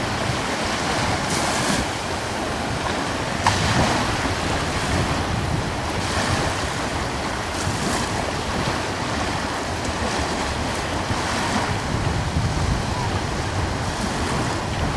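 Ocean waves washing in and breaking, with surges every couple of seconds, over a steady rush of coastal breeze buffeting the microphone.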